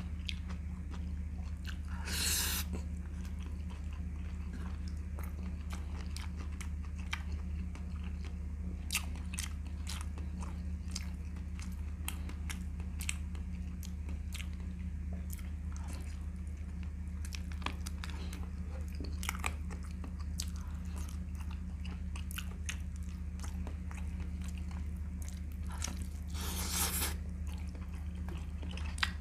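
Close-up chewing of a mouthful of chicken leg meat, with many small wet mouth clicks and smacks, over a steady low hum. Two short, louder noisy sounds stand out, about two seconds in and near the end.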